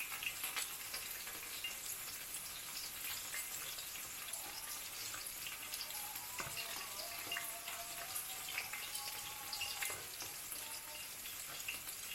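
Food sizzling as it fries in a pan: a steady crackle with scattered small pops.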